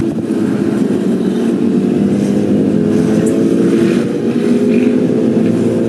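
Motorcycle engines running loud and steady, their pitch holding fairly even.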